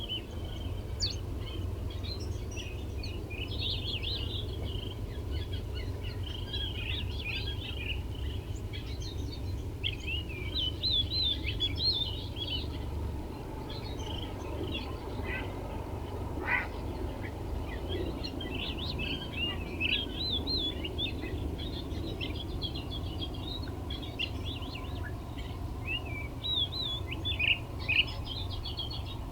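Small bird twittering: clusters of quick, wavy up-and-down chirps that come and go throughout, over a steady low rumble.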